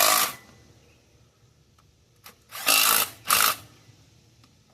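A cordless power tool spinning in short bursts as it runs down the valley cover bolts on a 5.3 LS V8: one burst at the start, then two more about two and a half to three and a half seconds in.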